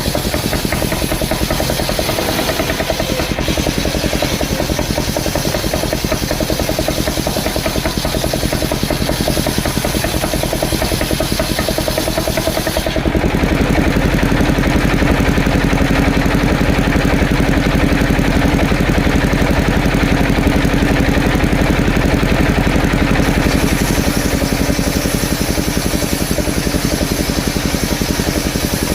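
Engine-driven mobile circular sawmill running while coconut-palm logs are sawn. About halfway through it turns louder and deeper for some ten seconds, then eases back.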